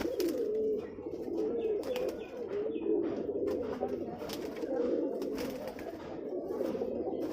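Many domestic pigeons cooing at once, overlapping low, wavering coos, with scattered sharp taps among them.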